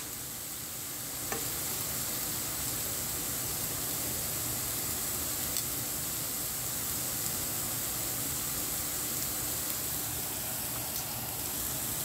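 Bihon rice noodles sizzling steadily in a hot pan, with a few faint clicks.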